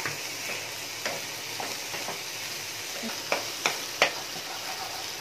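Gram flour being roasted in a pan of frying onion-tomato masala: a steady sizzle, with a spatula stirring and clicking against the pan several times, the sharpest clicks a little past the middle.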